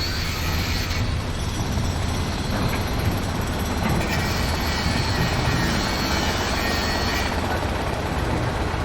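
Heavy construction machinery running steadily: a deep, even engine rumble, with a faint high whine coming and going over it.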